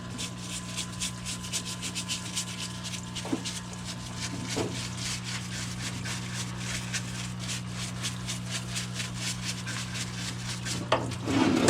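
A brush scrubbing a scooter engine case in a solvent parts cleaner, with rapid, repeated scraping strokes. The parts-cleaner pump hums steadily underneath.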